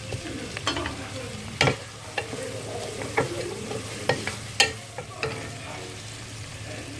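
Sliced onions and green chilies frying in hot oil in a pan, a steady sizzle while they soften. A spoon stirring them knocks sharply against the pan about eight times.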